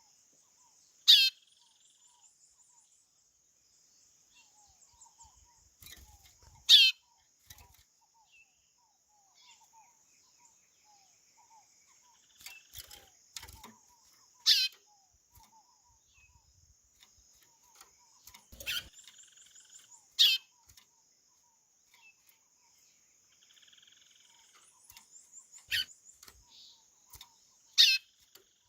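Chorão (white-bellied seedeater) giving short, loud calls that sweep down in pitch, about seven in all, spaced a few seconds apart, over a faint steady high hiss.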